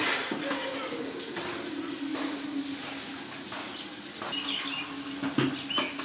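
Small birds giving short, high chirps now and then over a steady low hum and a background hiss, with a few sharp knocks, the loudest at the very start and near the end.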